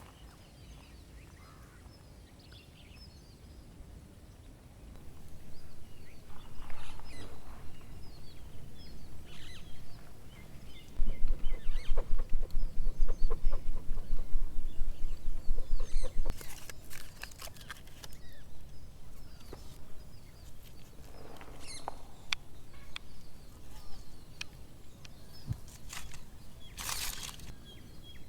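Outdoor ambience with scattered short bird calls, and a run of rapid low thumps lasting about five seconds near the middle.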